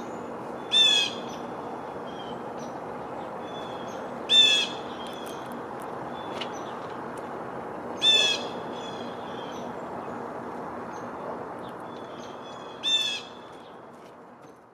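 A bird calling four times, each a short, rolled, harsh call about half a second long, spaced about four seconds apart, with fainter chips between them. Under the calls runs a steady low outdoor hiss that fades away near the end.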